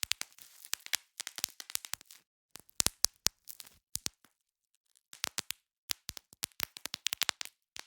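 Bubble wrap being popped: quick irregular clusters of sharp pops and crackles, with a pause of about a second in the middle.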